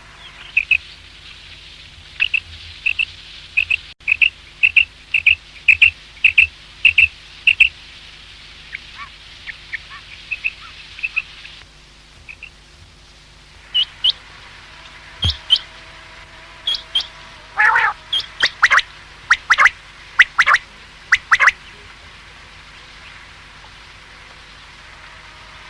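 Quail calling: a quick run of short, evenly repeated high notes, about two or three a second, that fades after several seconds. After a brief pause come sharper, more scattered calls, which stop a few seconds before the end. A faint steady hum sits underneath.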